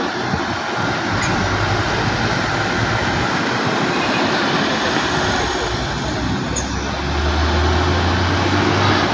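Heavy truck engine running, a low drone under a steady wash of noise, growing louder about two-thirds of the way through.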